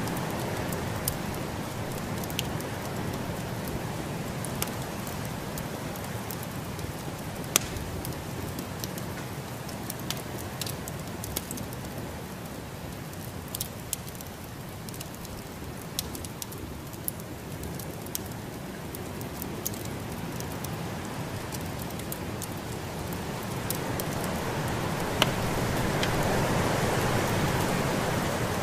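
Wood fire crackling with scattered sharp pops over the steady rushing noise of a snowstorm, which swells louder near the end.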